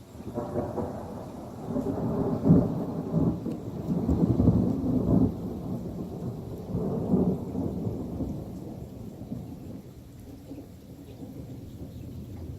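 Thunder: a long rolling peal that starts suddenly, swells several times over the first seven seconds or so, fades away, and begins building again near the end.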